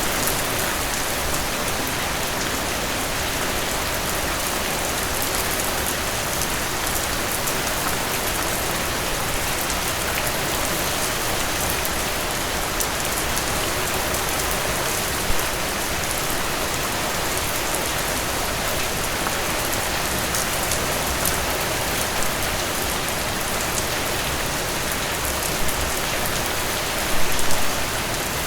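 Steady rain falling on a surface, a dense even hiss of drops, with a few sharper, louder drop hits here and there and a short cluster of them near the end.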